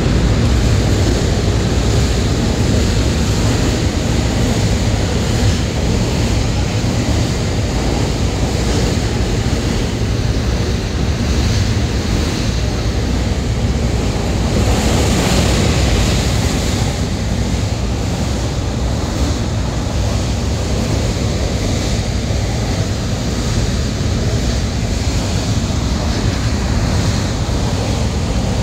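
Airport train running at speed over a steel truss bridge, heard from inside the carriage: a steady low rumble of wheels on the track with a hiss above it, swelling briefly about halfway through.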